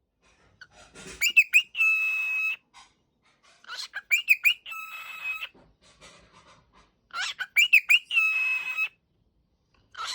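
Cockatiel whistling the same phrase three times: a few quick swooping chirps, then one long steady whistled note.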